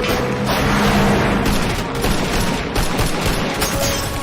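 Sustained rapid automatic gunfire, many shots overlapping into a steady rattle, from an action-film firefight.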